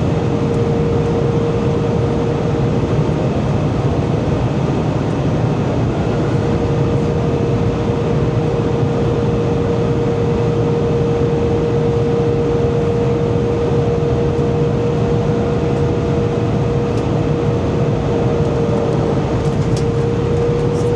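Airbus A320 cabin noise: the steady rush of the engines and airflow, with a constant hum tone over it.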